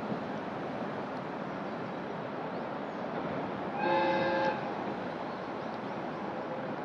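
A JR West KiHa 120 diesel railcar sounds one short horn blast of about half a second, a chord of several tones, near the middle. A steady rushing noise runs underneath.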